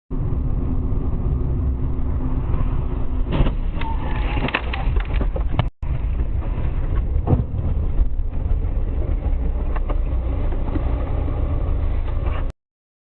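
Car dashcam audio: a steady low road and engine rumble heard from inside a moving car, with a few short knocks. The sound cuts out for a moment about halfway through, then the rumble resumes.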